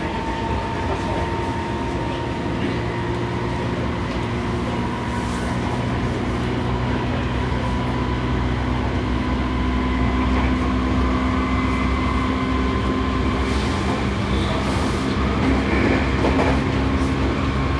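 Interior running sound of a Seibu 6000 series electric train car under way, with steady rail rumble. Over it the traction motor and gear whine rises slowly in pitch as the train gathers speed, and a few clacks come from rail joints.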